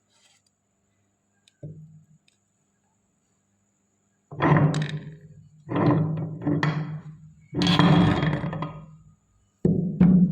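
Meat grinder motor switched on in five short bursts of about a second each, starting about four seconds in, with a low hum under a grinding, crunching noise as jelly candy is pushed through.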